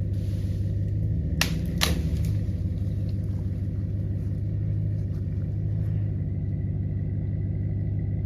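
An engine running steadily at idle, with two sharp clicks about a second and a half and two seconds in.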